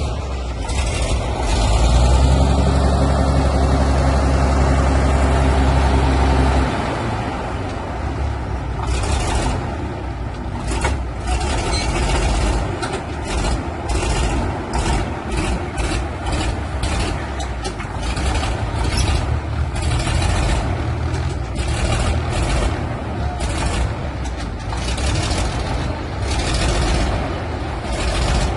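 Heavy tractor's diesel engine run hard for about four seconds, then dropping back to a lower, uneven pace, with frequent sharp knocks and clanks through the second half.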